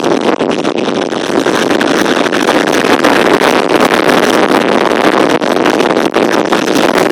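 Strong wind rushing and buffeting the microphone: a loud, continuous roar that flutters with the gusts.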